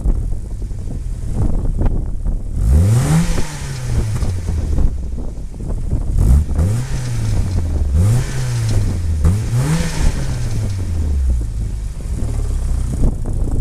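VW Scirocco 16-valve four-cylinder engine breathing through a full Supersprint header-back exhaust, idling and revved four times, each rev rising quickly and falling slowly back to idle.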